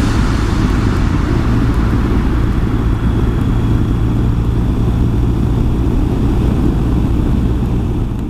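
A vehicle engine running steadily under a constant rushing wind noise.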